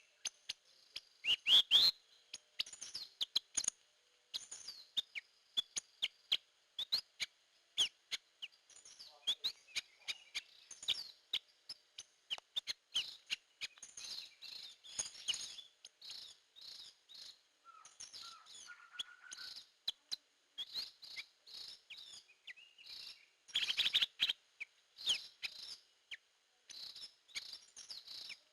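Srigunting kantil (drongo) calling, a lure recording: a long, busy run of sharp chirps, whistled notes and harsh clicks, with a short string of lower repeated notes a little past halfway and again near the end.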